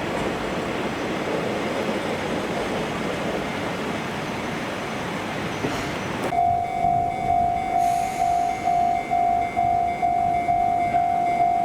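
An Akechi Railway diesel railcar running past with a dense rumble of wheel and engine noise. About six seconds in this gives way abruptly to a Japanese level-crossing warning bell, an electronic ding repeating about one and a half times a second.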